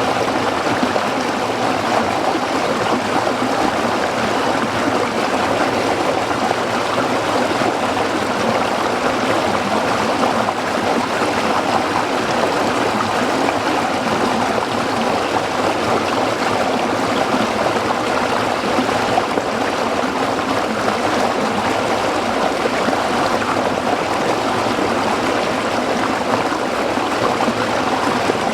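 A small stream running over rocks: a steady, even babbling and splashing of water.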